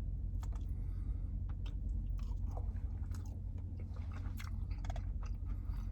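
Close-up chewing of soft, soggy loaded fries with chicken and cheese sauce: irregular wet mouth clicks and smacks, over a steady low hum.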